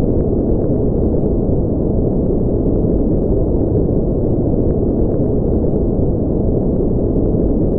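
Steady, loud noise track for sleep, deep and dark: a rumbling hiss with most of its weight in the low end and nothing above the upper mids, unchanging throughout.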